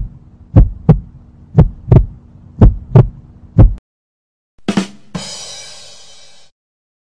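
A heartbeat sound effect: paired low thumps about once a second, four beats in all, stopping abruptly. Then a sharp hit followed by a bright, hissing swell that cuts off suddenly after about a second and a half.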